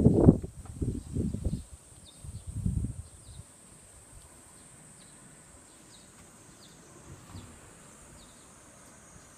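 Low gusts buffeting the microphone for the first three seconds or so, then a faint outdoor background of insects: a steady high hiss with short, high chirps repeating every half second or so.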